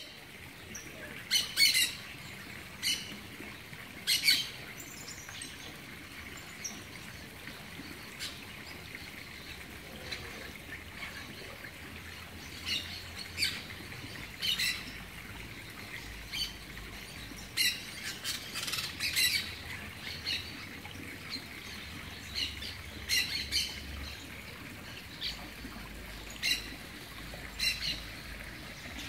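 Birds calling outdoors: short, sharp calls, singly or in quick clusters every second or two, over a steady background hiss. The loudest calls come near the start.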